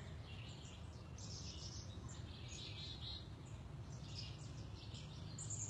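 Faint birdsong: wild birds chirping in short, high bursts that come and go, over a steady low background noise.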